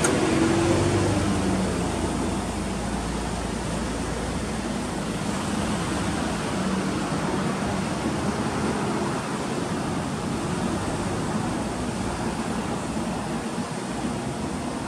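Subaru Legacy B4's turbocharged flat-four idling, a faint low hum under a steady hiss. The engine hum is clearest in the first couple of seconds and fades into the hiss.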